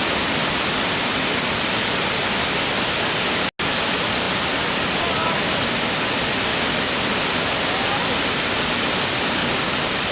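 Natural waterfall, water rushing down in a steady, even roar of noise. It cuts out for an instant about three and a half seconds in.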